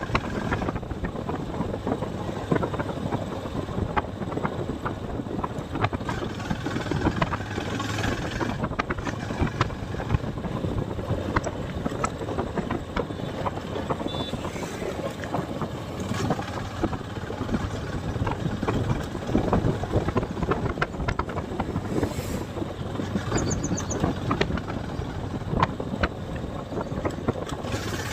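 Motorcycle engine running as the bike is ridden, with wind rushing over the microphone.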